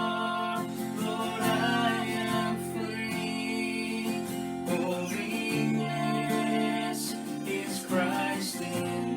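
Worship music led by strummed acoustic guitar, with singing.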